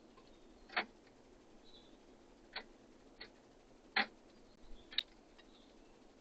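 Birds pecking and tapping at a feeder: five sharp, short taps at uneven spacing, the loudest about a second in and again about four seconds in.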